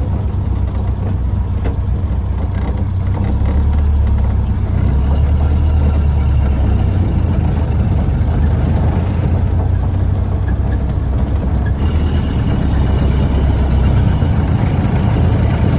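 1931 Ford Model A pickup's four-cylinder engine running as the truck drives along, a steady low drone that gets a little louder about four seconds in.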